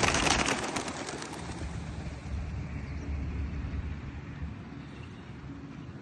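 Pigeons' wings flapping, a rapid clatter that thins out and fades within the first second or two, leaving a soft outdoor hiss with low wind rumble on the microphone.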